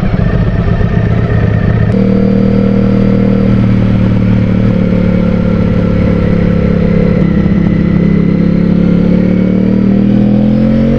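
Ducati Streetfighter V4's 1103 cc V4 engine running at low, steady revs while the bike rolls along, heard from on the bike. About two seconds in, the rough rumble settles into a steady engine note, and near the end the revs rise.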